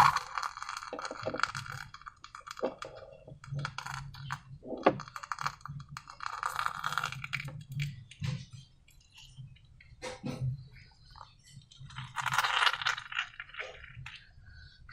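Slime-making materials being handled and stirred: bursts of crackly, clinking handling noise, with a few sharp knocks about five seconds apart and a faint steady hum underneath.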